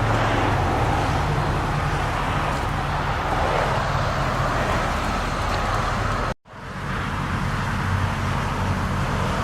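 2001 Mercury Cougar's 2.5-litre DOHC V6 idling steadily, with a steady background hiss, cut off briefly about six seconds in.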